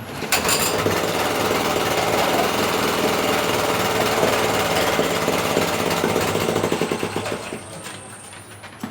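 Two-stroke brush cutter engine catching and running fast and steady, then slowing near the end in separate firing beats as it winds down.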